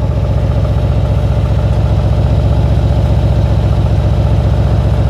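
Exhaust of a Mercedes-AMG GLC 63 S's twin-turbo V8 idling, a loud, steady, even low pulsing.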